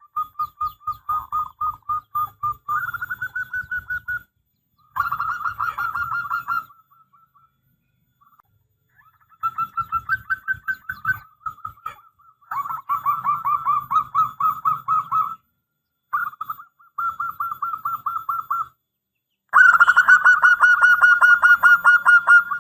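Zebra dove (perkutut) cooing: fast runs of short, evenly spaced staccato notes in repeated phrases of two to four seconds each, separated by brief pauses. The last phrase, near the end, is the loudest.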